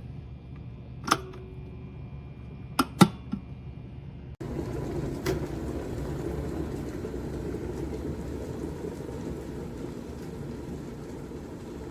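Stainless-steel electric kettle heating water near the boil, a steady bubbling noise. A few sharp clicks come in the first three seconds. About four seconds in, the sound cuts abruptly to a louder boil.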